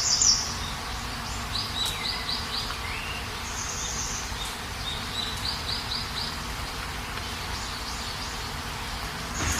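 Steady rain hiss with small birds chirping over it in short runs of quick chirps, plus a falling call or two.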